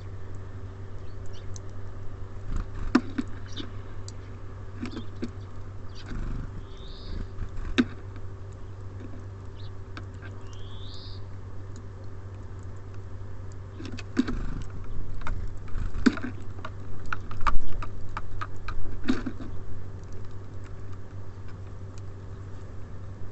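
Small birds at a feeder: irregular sharp taps and clicks of pecking at seed and hopping on the feeder, thickest in the second half. There are two short rising chirps, about seven and eleven seconds in, over a steady low hum.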